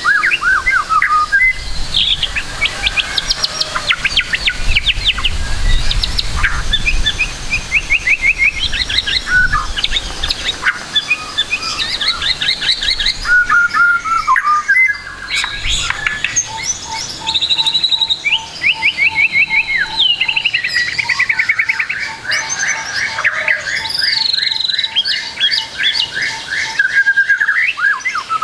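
White-rumped shama singing a varied song of fast trills, rattling note runs and whistles, laced with phrases mimicked from other birds. Through the second half a lower note repeats steadily, several times a second, beneath the song.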